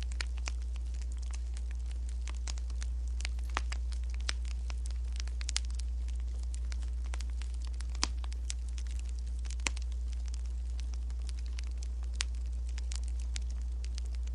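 Wood fire crackling: irregular sharp snaps and pops, a few louder ones, over a steady low rumble.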